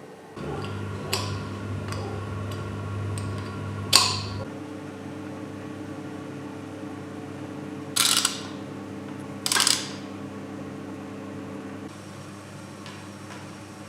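A steady machine hum that starts just after the opening, shifts in pitch about four and a half seconds in and drops away about twelve seconds in, with four sharp metallic clinks over it.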